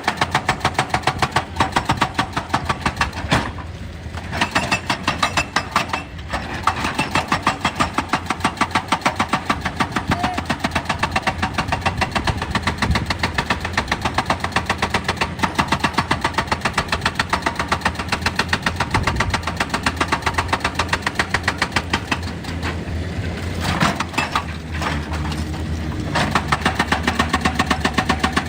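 Excavator's hydraulic breaker hammering rock in a fast, even stream of blows over the diesel engine's steady running, pausing briefly a few times.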